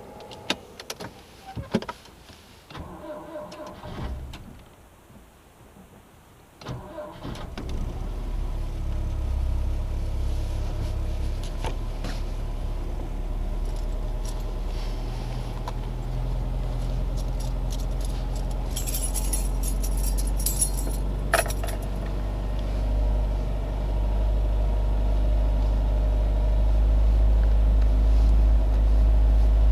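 Keys jangling and clicking, then about seven seconds in a Citroen DS engine starts and runs with a steady low rumble that grows slowly louder.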